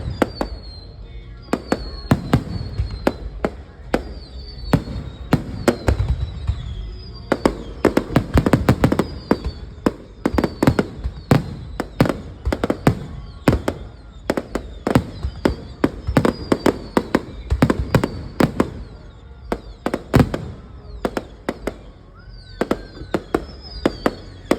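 Fireworks display: a rapid, irregular barrage of sharp bangs and crackling bursts, with short high whistles falling in pitch between them.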